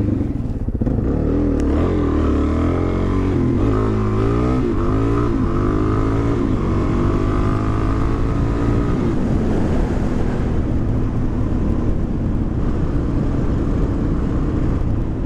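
Suzuki DR-Z400's single-cylinder four-stroke engine accelerating at full throttle, its pitch climbing in several successive rising sweeps, then running at a steadier pitch for the second half.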